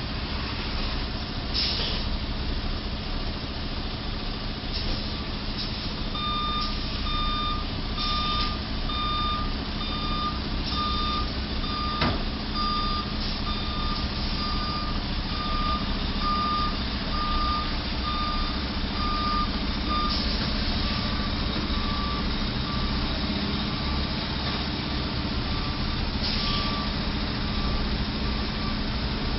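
Electronic warning beeps repeating a little faster than once a second, starting about six seconds in, over the steady hum of a vehicle's engine and road noise. A single sharp click comes about halfway through.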